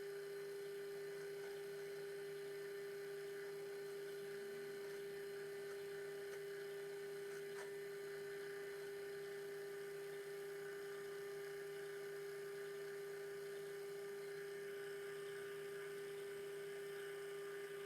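Metal lathe running with a steady, even hum and no change in pitch.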